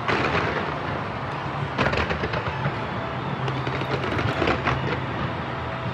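Fireworks going off in a dense barrage, with heavy bangs and crackle at the start, about two seconds in and again near the end, over a steady low drone.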